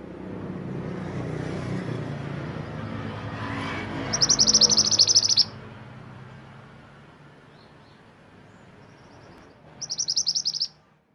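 A mantenan gunung songbird giving two high, rapid trills, each about a second long: one about four seconds in and one near the end. A steady low rumble sits underneath.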